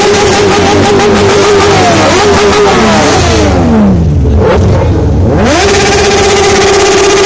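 Superbike engine revved high and held, the revs falling away over about two seconds, then blipped sharply back up and held high again.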